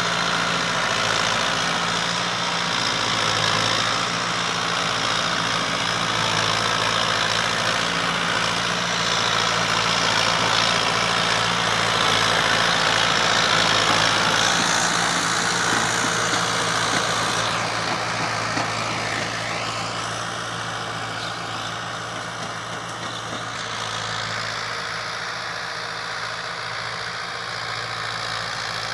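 Fiat 640 tractor's diesel engine running at a steady note, dropping slightly in loudness over the second half.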